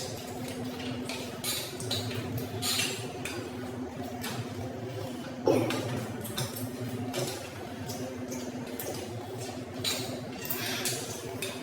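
People eating from plates: scattered clinks of dishes and cutlery with chewing sounds over a steady low hum. A short voice-like sound about five and a half seconds in.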